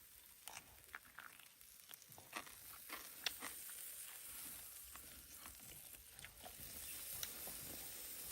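Faint sizzling hiss with scattered sharp crackles and pops at irregular times, from steak grilling over a wood fire.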